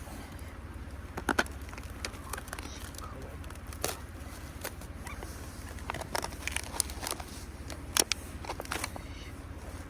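Irregular sharp clicks and light knocks, the loudest about a second in and again near the end, over a steady low rumble.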